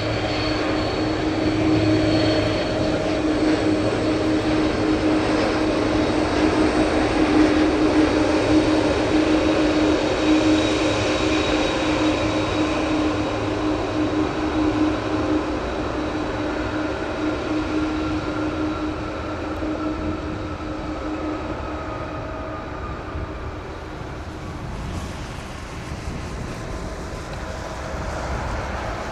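Jet airliner's engines running loud and steady, with a low hum and a whine over a rushing noise, swelling to their loudest about a third of the way in and then slowly fading, a faint tone sliding down in pitch as it goes.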